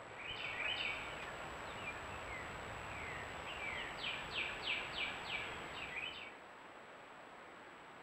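A songbird singing outdoors: scattered chirps, then a run of five quick down-slurred notes about three a second, over a steady hiss. The birdsong and most of the hiss stop about six seconds in.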